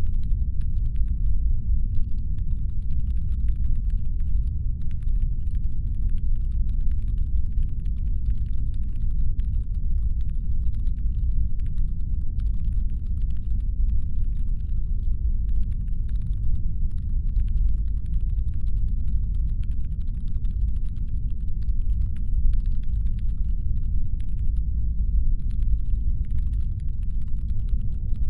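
Constant deep brown noise, a low steady rumbling hum made to sound like a spaceship's engines, with a very faint fine crackle of tiny clicks above it.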